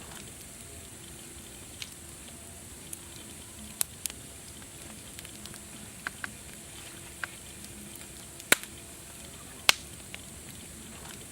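Fire crackling: irregular sharp pops and snaps over a steady hiss, two of them much louder near the end.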